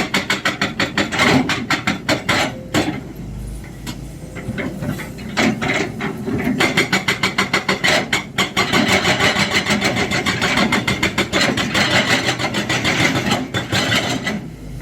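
Excavator-mounted hydraulic breaker hammering in rapid runs of blows over the steady drone of the machine's diesel engine. The blows stop for a couple of seconds a few seconds in, then run almost without a break from about six seconds on.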